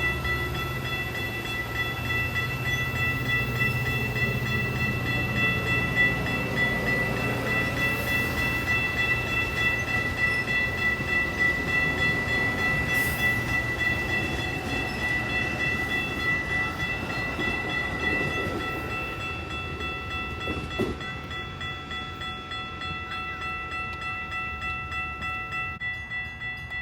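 A train passing close by, with a steady low rumble and rhythmic rail clatter under several steady high tones. It fades over the last third.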